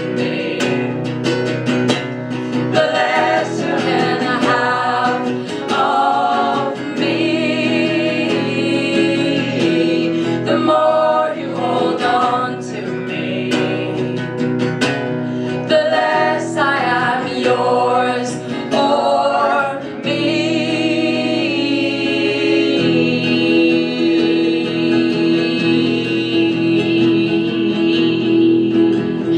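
Live folk song: a woman singing over acoustic guitar, her voice moving through a melody and then, from about two-thirds of the way in, holding a long wavering note.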